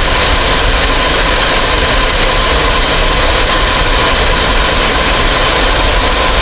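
Steady aircraft engine noise, even and unbroken, with a thin steady tone running through it.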